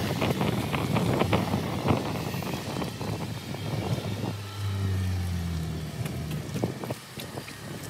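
Audi S5 Sportback's supercharged 3.0 V6, running on a Milltek sport exhaust as the car drives. Rough wind-like noise fills the first half. About four seconds in, a steady low engine drone takes over and fades near the end.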